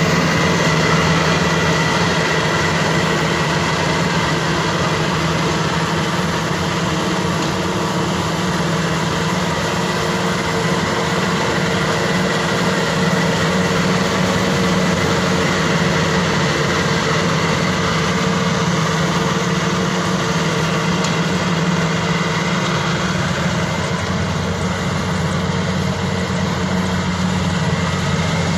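Maxxi Bimo 102 SS combine harvester's engine running steadily, with a constant hum and no change in speed.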